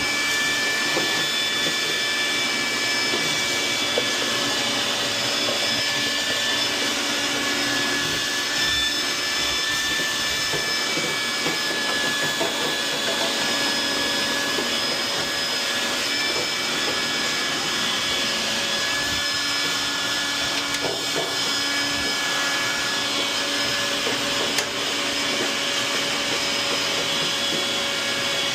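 An electric motor running steadily with a high whine over a rushing hiss, just after spinning up.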